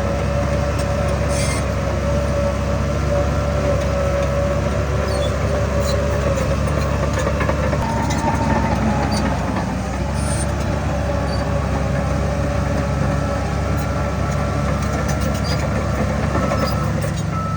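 Heavy diesel earthmoving machine running steadily under load: a continuous low engine drone with a steady whine on top.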